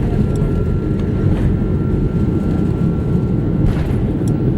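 Airbus A330's twin jet engines running at takeoff thrust: a loud, steady rumble with a thin, steady whine above it.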